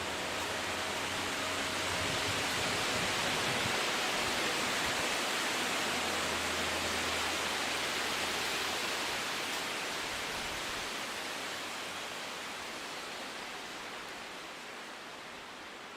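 Wind blowing through trees as a steady rushing hiss, swelling in a gust over the first few seconds and then slowly dying away.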